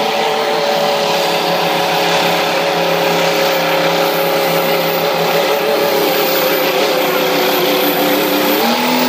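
Diesel semi truck engine running loud under heavy pulling load, its pitch sagging slowly lower, then rising sharply near the end as it revs up.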